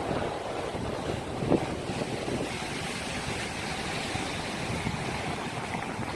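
Rough sea surf rushing and breaking, with wind buffeting the microphone, and one short louder thump about one and a half seconds in.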